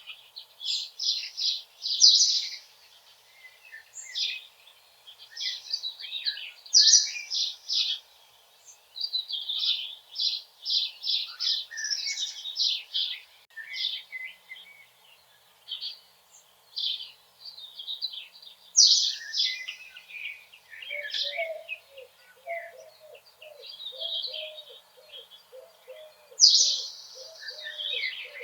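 Forest songbirds singing in a busy chorus of quick high notes and trills. From about three-quarters of the way through, a lower, evenly repeated call joins underneath.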